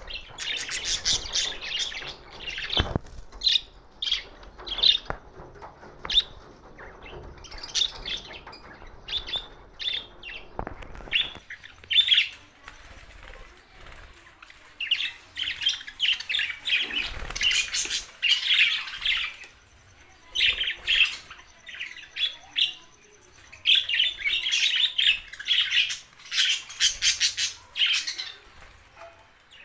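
Budgerigars chirping and warbling in bursts of rapid chatter, broken by short pauses, with a few faint knocks.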